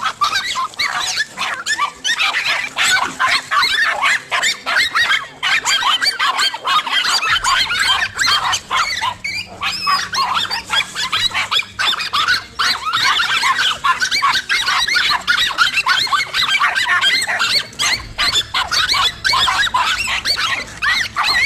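Several dogs barking and yapping over one another without pause, excited calls overlapping densely.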